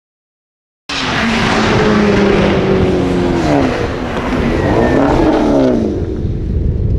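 Subaru STI's turbocharged flat-four engine revving hard, cutting in suddenly about a second in, its pitch dropping and climbing again twice through the middle.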